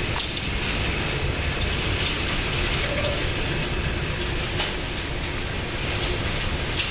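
Empty coal hopper cars of a freight train rolling along the track: a steady rumble and clatter of steel wheels on the rails.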